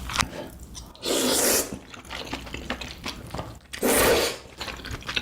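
Two loud slurps of yukgaejang kalguksu noodles in spicy beef broth, each lasting about half a second, at about one second and about four seconds. Soft wet chewing and mouth clicks come between them.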